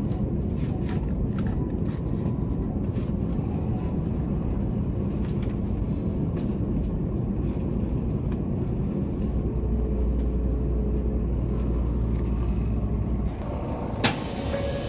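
Steady low rumble of a Shinkansen train running, heard from inside the car. A sharp click comes about a second before the end, where the rumble drops away.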